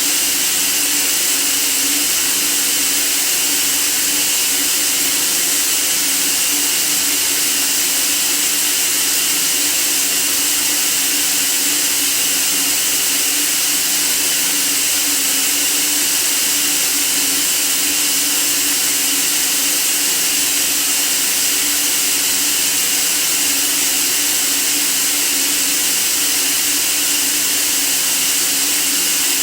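Steady white noise: an even hiss weighted toward the high end, with a faint low hum underneath, unchanging throughout.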